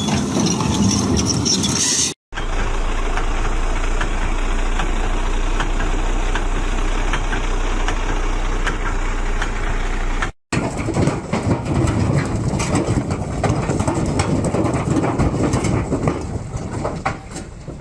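Heavy truck engines running under load, heard across three separate clips that cut off abruptly about two seconds and ten seconds in; the middle clip carries a steady low hum with scattered clicks.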